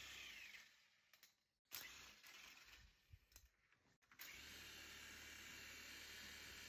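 Near silence: a faint steady hiss that drops away about half a second in and comes back about three and a half seconds later, with a few faint clicks in the gap.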